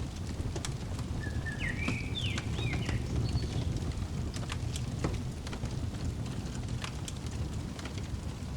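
Fireplace crackling, with scattered sharp pops over a steady low rumble of the fire. A bird gives a short phrase of quick chirping notes about a second in.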